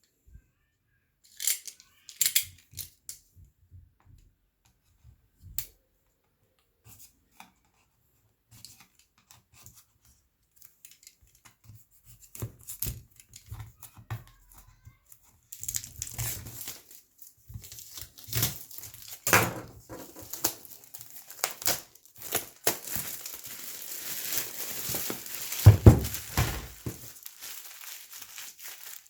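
Light handling clicks, then from about halfway in, packaging being torn and crinkled as the tablet's retail box is unwrapped, with a couple of louder knocks.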